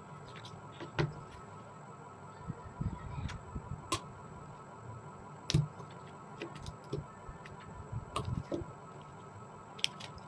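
Irregular light clicks and dull knocks of hand work on metal tools and parts, a few seconds apart, over a faint steady hum.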